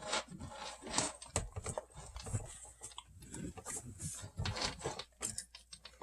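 Faint, irregular clicks and knocks, a few each second.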